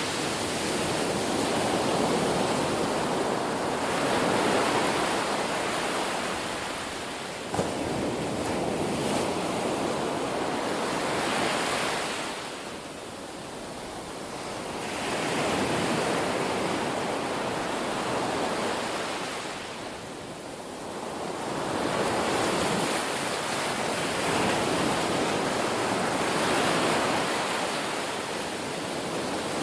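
Ocean surf: waves breaking and washing up the shore in long swells that rise and fall every several seconds, with one short click about a quarter of the way in.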